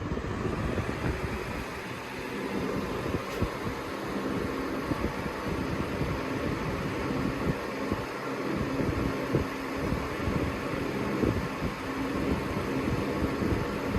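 Lasko Premium box fan running steadily on medium speed: an even rush of air with a faint steady hum.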